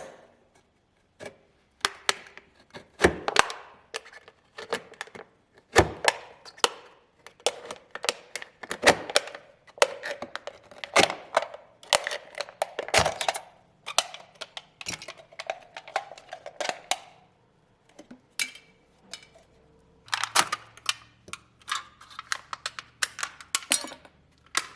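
Thin aluminium soda cans being cut open and bent flat by hand: an irregular run of sharp crinkling, crackling and clicking of the metal, with short pauses.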